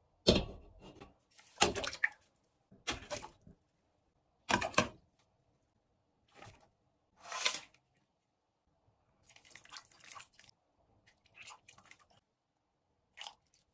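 Close-up eating sounds: several loud crunchy bites about a second and a half apart, then quieter chewing and crackling in the second half.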